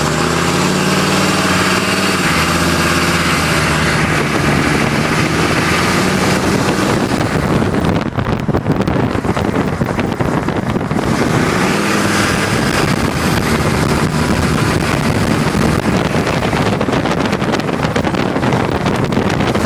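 Chevy 3500 turbo diesel pickup driving, its engine note rising as it accelerates near the start and again about twelve seconds in. Heavy wind and road noise runs under it throughout.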